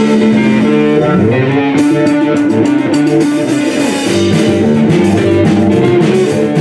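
Live rock band playing an instrumental passage between sung lines: electric guitar leading over bass and drums.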